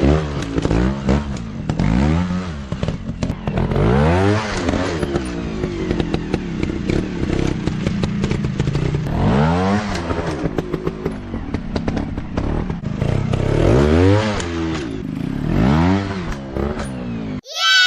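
Off-road dirt bike engines revving up and down over and over, with rattling and clatter. Near the end the engine sound cuts off suddenly and a short falling whistle-like tone follows.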